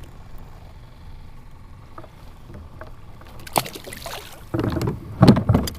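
Knocks and bumps against a plastic kayak with water sounds, starting about halfway through and loudest in a dense cluster near the end, over a low steady background hiss.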